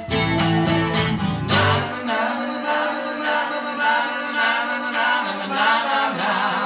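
A live country song on guitar with singing, coming to its end. The low notes stop about two seconds in, and the last chord and voice ring out.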